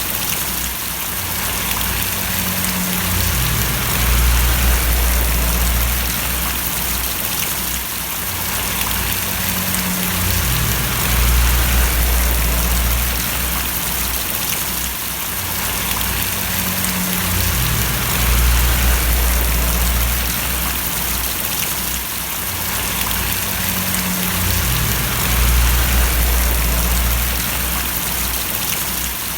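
Steady rain splashing, a dense hiss of drops. A low rumble underneath swells and fades about every seven seconds.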